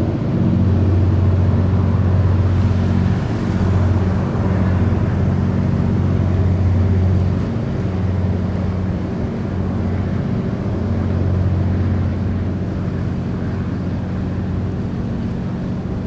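Diesel engines of a passing ferry running at a steady drone, a low hum with a few overtones over faint water and wind noise.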